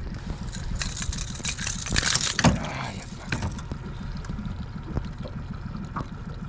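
Small boat's engine idling with a steady, low, uneven rumble. About a second in, a loud rushing burst of noise lasts a couple of seconds.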